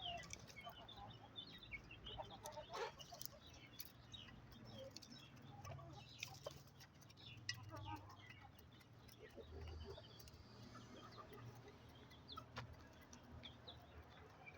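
Aseel chickens clucking softly, many short calls overlapping, with scattered sharp clicks and a faint low hum underneath.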